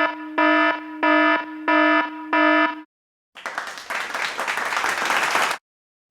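An electronic buzzer or alarm beeping five times in a steady rhythm, about one beep every two-thirds of a second. After a short gap comes about two seconds of dense crackling noise that cuts off suddenly.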